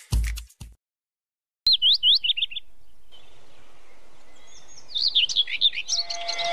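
Small birds chirping: a quick run of up-and-down chirps about two seconds in, then a longer twittering run near the end, over a faint steady hiss.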